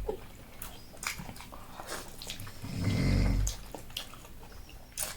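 Eating at close range: chewing and short wet clicks of mouth and utensils, with a short low voiced sound about three seconds in.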